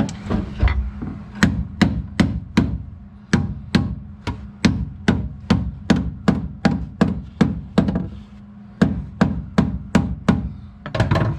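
Hammer blows on sheet-metal floor pan, about two a second with a brief pause about two-thirds of the way through, over a steady low hum. They are knocking a floor patch panel down flush before tack welding.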